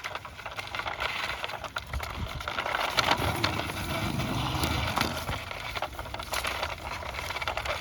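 Rustling of leaves and branches with many small clicks and taps as a hard-plastic toy vehicle is handled.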